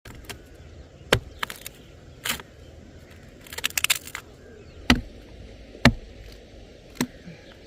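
Irregular sharp knocks and clicks, several single strikes with a quick rattle of clicks near the middle, over a steady low background noise.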